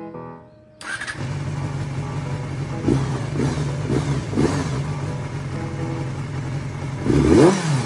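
Honda Jade 250 inline-four motorcycle engine running at idle, coming in just under a second in, with a few short throttle blips and then one sharp rev that rises and falls near the end.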